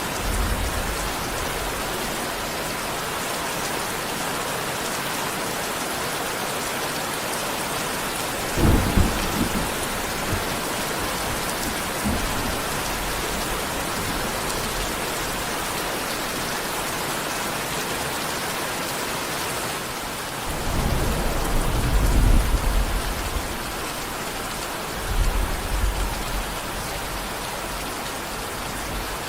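Steady, heavy rain falling, with thunder rumbling through it: a short low rumble about a third of the way in, a longer rolling one about two-thirds through, and a brief one soon after.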